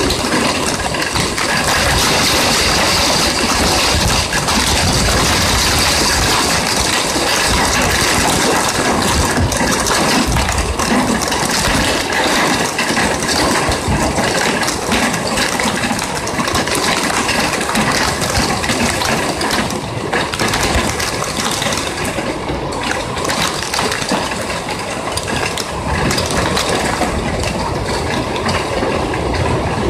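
Heavy rain drumming on a metal window ledge and directly on the phone's casing: a dense, steady clatter of drops hitting close to the microphone.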